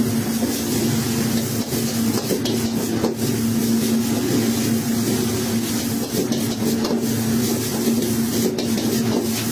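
Fried rice being stir-fried in a wok: a steady sizzle, with the spatula scraping and knocking against the pan, over a constant mechanical hum.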